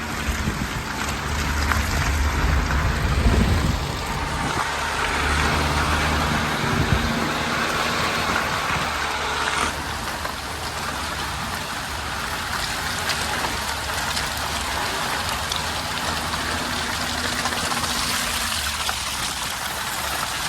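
Daihatsu Hijet mini truck engine running at low speed, clearest in the first several seconds and then fainter, under a steady hiss of rain.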